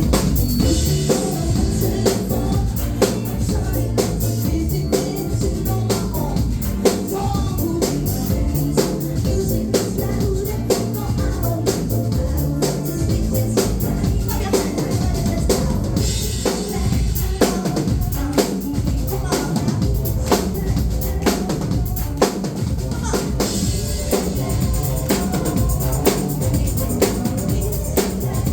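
Live band playing an instrumental passage of an indie-pop song, with the drum kit out front: kick drum, snare and rimshots keeping a steady beat over low bass notes.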